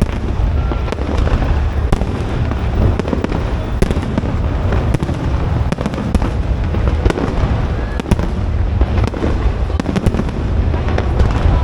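Fireworks display going off continuously: a steady low rumble of bursts with many rapid small pops and crackles over it.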